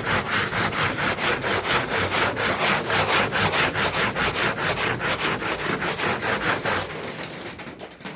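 Hand sanding with worn sandpaper: quick, even back-and-forth scraping strokes, about five a second, which stop about seven seconds in.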